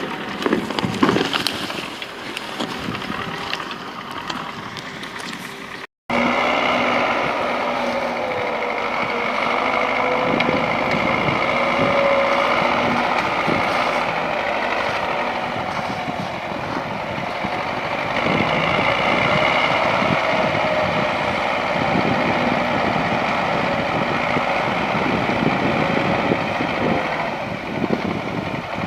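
YuMZ tractor's diesel engine running under load while skidding logs, its pitch rising and falling a little. There are a few knocks in the first seconds and a brief dropout about six seconds in.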